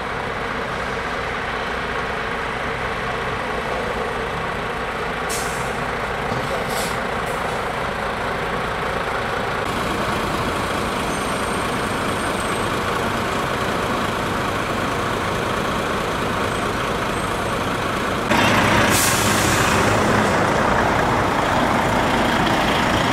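Heavy trucks running and driving past, engines rumbling steadily, with short air-brake hisses about five and seven seconds in and a louder, longer hiss about eighteen seconds in.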